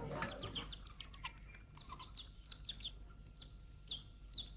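Small birds chirping: many quick, short downward-sliding chirps, faint and scattered, just after a louder noise fades out at the start.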